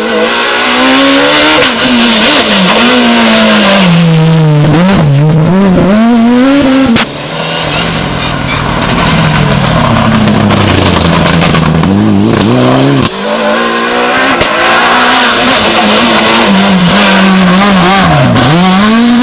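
Rally cars at racing speed, engines revving hard and dropping back through gear changes and lifts as they go by. The sound breaks off abruptly twice, about a third and two-thirds of the way in, as one pass gives way to another.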